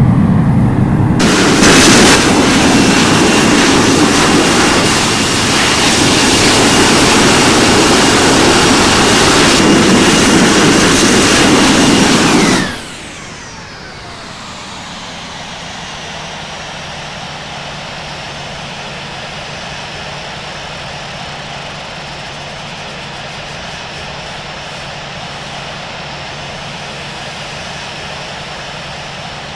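Airbus A320 jet engines in loud reverse thrust on the landing roll, a heavy roar with a thin high whine. It cuts off sharply about 13 seconds in, and the engines spool down with a falling whine to a steady idle hum.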